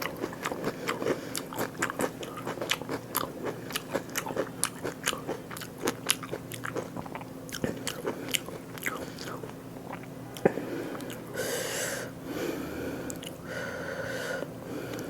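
A person chewing food close to the microphone: many quick, wet mouth clicks, then two longer noisy stretches near the end.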